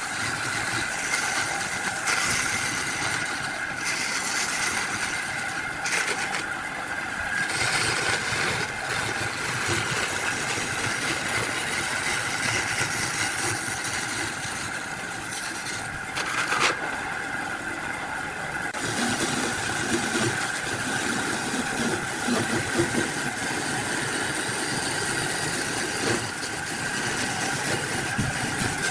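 A motor running steadily with a constant whine, and a single sharp knock a little past halfway.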